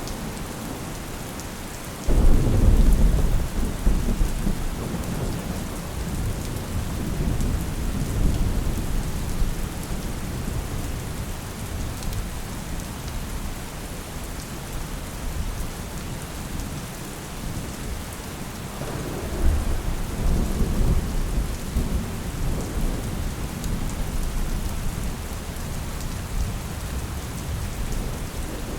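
Steady rain falling, with thunder rolling over it twice. The first roll breaks suddenly about two seconds in and rumbles away over several seconds. A second, softer roll comes past the middle.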